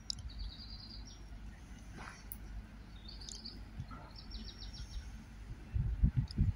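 A small bird chirping, several quick runs of short high notes, over a low steady background noise. A few low thumps come near the end.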